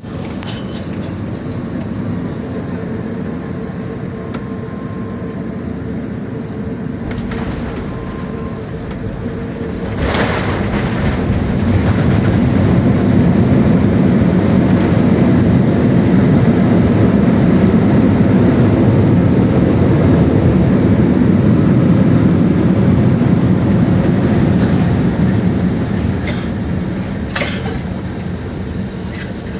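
Passenger airliner cabin noise: a steady rumble of jet engines and airflow that grows louder about ten seconds in, then eases somewhat near the end.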